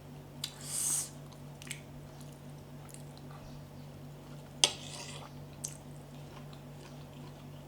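Close-up eating sounds of someone chewing santol salad: a short hissing slurp about a second in, a sharp click a little past halfway, and a few fainter clicks, over a steady low hum.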